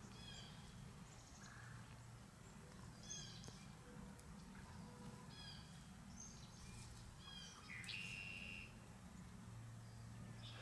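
Faint short bird chirps, repeating every second or two, with a longer, louder call about eight seconds in, over a low steady hum.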